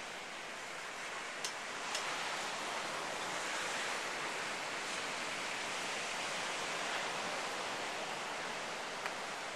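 Steady wash of ocean surf, swelling a little in the middle, with a few faint clicks.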